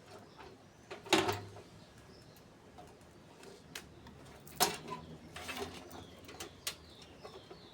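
Two sharp knocks, about a second in and again just before the middle, with lighter clicks and handling noise between them, and faint bird chirps in the background.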